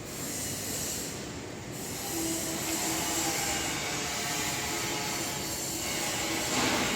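Steady industrial machinery noise with a faint hum in the middle and a brief louder hiss just before the end.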